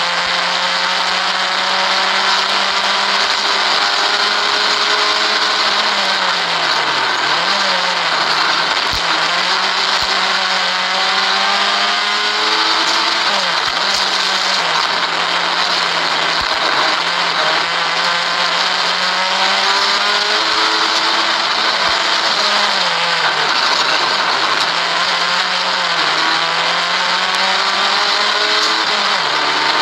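Vauxhall Corsa 1200 rally car's 1.2-litre engine held at high revs, heard from inside the cabin under hard acceleration. Its pitch drops sharply and climbs again about four times as the driver lifts and changes gear, with a few sharp knocks near the middle.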